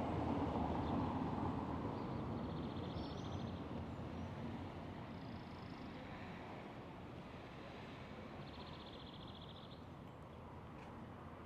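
A bird giving two short, rapid chattering calls, a few seconds apart, with a few thin chirps between, over a low steady rumble of town traffic that fades gradually.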